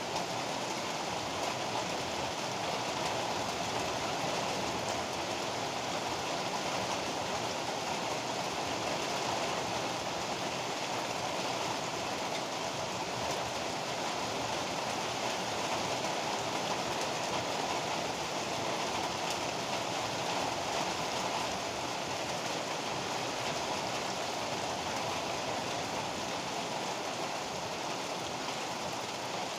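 Heavy rain pouring steadily, an even unbroken hiss with no thunderclaps.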